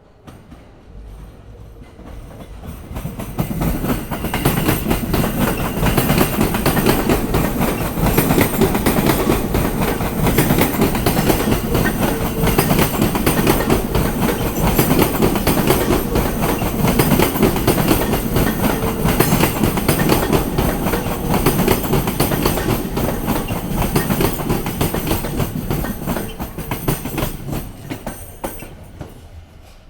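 Sobu Line electric commuter train clattering over rail joints, a fast dense run of wheel clicks. It builds over the first few seconds, stays loud for about twenty seconds and dies away near the end.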